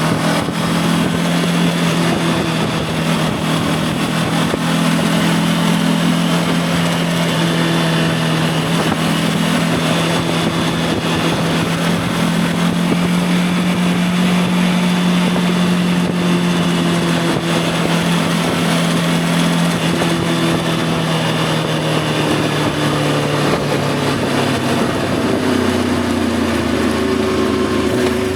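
Voge 525 DSX parallel-twin motorcycle engine running at a steady cruising speed under a constant rush of wind. About three seconds before the end, the engine note drops lower as the bike slows.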